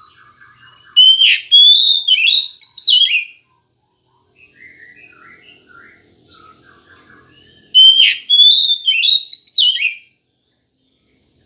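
Oriental magpie-robin (kacer) singing: two loud runs of sliding, whistled notes, one about a second in and one about eight seconds in, with soft twittering between them.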